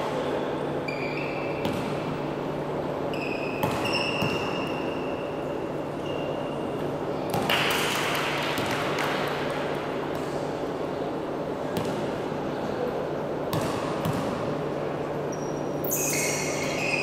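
Basketball game on an indoor court: sneakers squeak sharply on the floor several times, with a few ball bounces over a steady background of the crowd and hall.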